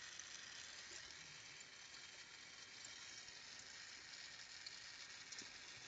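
Faint, steady hiss of a Carlisle glassworking torch flame burning.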